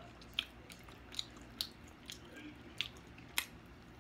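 A person chewing ribs in barbecue sauce with wet mouth sounds: about five sharp lip smacks and mouth clicks spread through, the loudest near the end.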